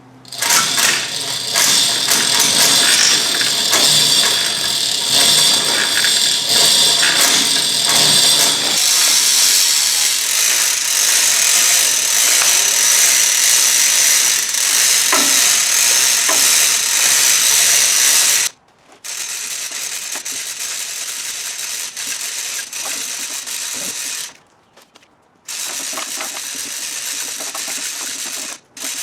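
A power drill running in long runs, stopping and starting again, while the wooden shipping crate of a replacement engine is taken apart. It stops briefly about two-thirds of the way through and twice more near the end.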